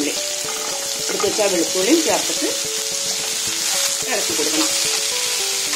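Sliced onions and garlic cloves sizzling steadily in hot oil in a pan, stirred with a wooden spatula.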